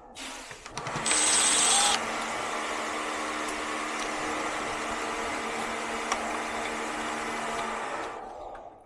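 A small electric motor, likely a cleaning machine or power tool, running steadily. It is louder and shriller for about a second near the start, then stops shortly before the end.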